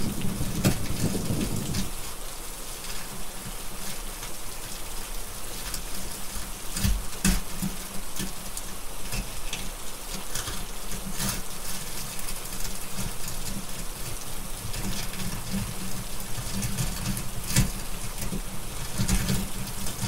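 Steady rain with scattered sharp crackles of a wood fire, over a low thunder rumble that dies away about two seconds in and returns near the end.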